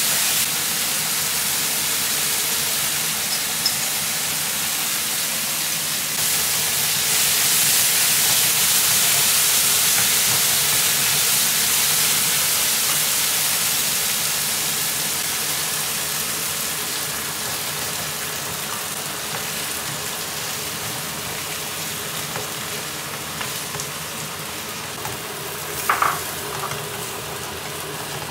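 Minced pork sizzling in hot oil in a nonstick frying pan while a wooden spatula stirs it. The sizzle swells a few seconds in and then slowly dies down, with a brief knock near the end.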